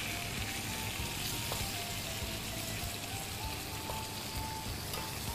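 Chopped vegetables and spices sizzling in a pot as they are stirred with a wooden spatula. Soft background music plays a slow melody of held notes underneath.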